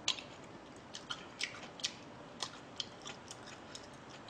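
Close-miked chewing of a mouthful of stir-fried pork fried rice: soft, wet mouth clicks, irregular, about two a second.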